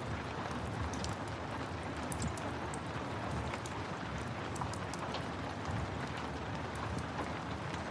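Steady rain mixed with the crackle of a wood fire: an even hiss with scattered small sharp pops.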